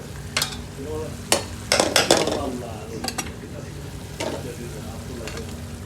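Metal utensil clanking and scraping against a cooking pan about eight times, over a steady low kitchen hum.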